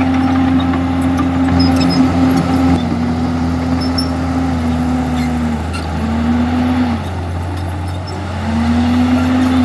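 Komatsu D51EX bulldozer's diesel engine running hard. Its pitch sags a few times in the second half as it takes load, then rises again near the end.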